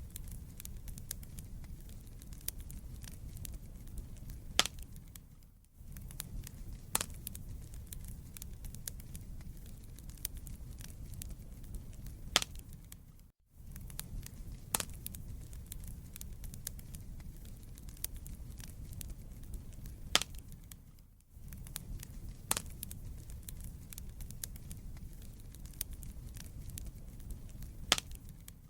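Wood fire crackling in a fireplace: a steady low rumble of burning logs with frequent sharp pops and snaps. The sound dips out briefly about every seven to eight seconds.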